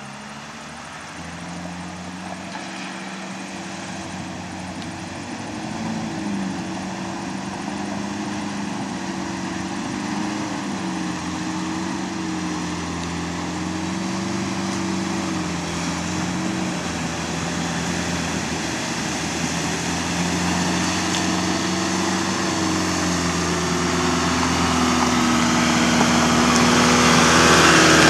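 Nissan Navara ute's engine running at low, wavering revs, growing steadily louder as it comes closer, with a broad rushing noise building near the end as it pushes through the river.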